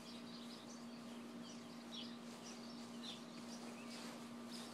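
Birds chirping: short high calls repeating about twice a second, over a faint steady low hum.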